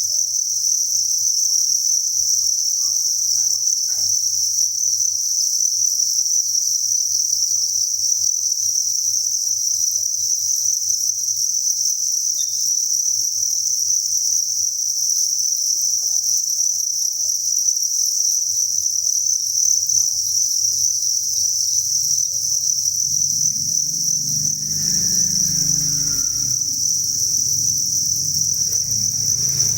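A dense chorus of thousands of farmed crickets chirping together, merging into one steady, continuous high-pitched trill.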